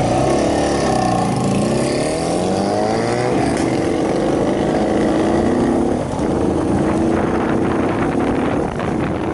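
Shineray 50cc motorcycle engine running under way: its pitch dips and climbs again over the first few seconds, then holds steady at cruising speed, with wind noise on the microphone.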